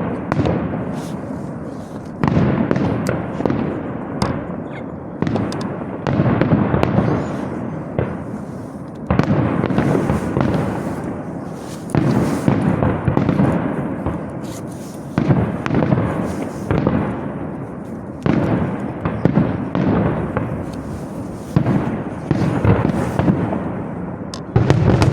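Aerial fireworks shells bursting one after another in a pyrotechnic display: a sharp boom every one to three seconds, each dying away slowly in a rolling echo.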